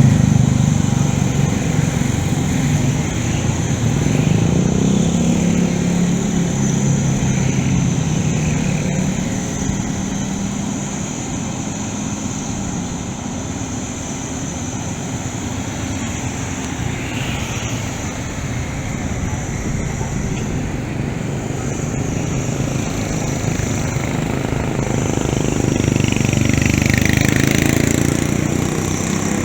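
Diesel engine of a long-arm Caterpillar excavator running, loudest at the start and easing off through the middle. Near the end it swells again with a higher whine that rises and falls.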